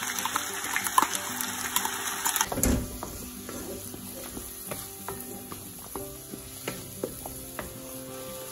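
Freshly added ground onion paste sizzling and crackling in hot mustard oil in an iron kadhai. About two and a half seconds in there is a dull thump, and the sizzle then drops to a quieter frying as a wooden spatula stirs the paste, with light scrapes and taps on the pan.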